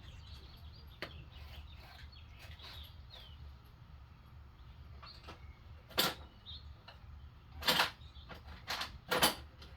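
Hand tools being handled while searching for the right socket: a few sharp clinks and a short scrape, the last two close together near the end, over a low steady hum.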